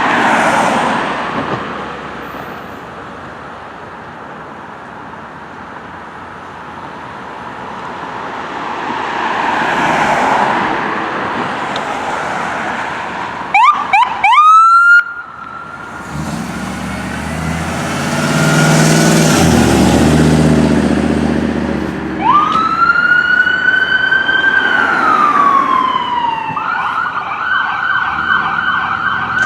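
Passing road traffic at first; about halfway through, a fire engine's siren gives a few quick rising whoops, then the truck's diesel engine is heard pulling away under load. A siren wail follows, rising and then falling, and switches to a fast yelp near the end.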